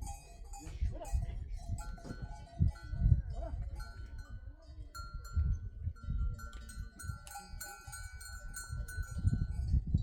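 Livestock bells on a herd of goats or sheep clinking and ringing irregularly, with occasional bleats and low rumbling thumps underneath.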